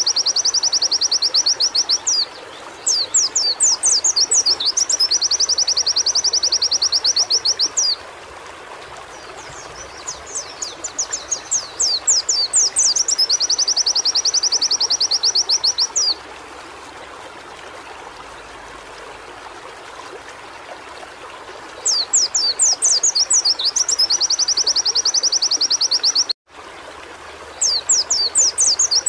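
Pleci (white-eye) singing in repeated high phrases, each opening with a few quick sweeping notes and running into a fast trill of several seconds, over a steady background hiss. The sound drops out for a moment about three-quarters of the way through.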